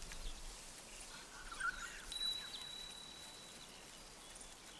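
Faint outdoor ambience with a few soft bird chirps, and a thin high whistle held for about a second and a half near the middle.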